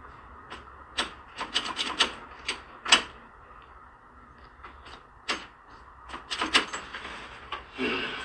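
Hands working on a car's wiring: irregular sharp clicks and light knocks with rubbing, bunched about a second to three seconds in and again around five to seven seconds. No engine is running.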